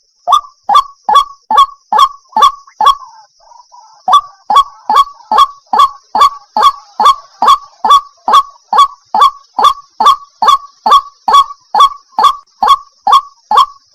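A waterhen calling over and over: a long run of short notes, each falling in pitch, about two or three a second, with a brief pause about three seconds in. A faint steady high hiss runs underneath.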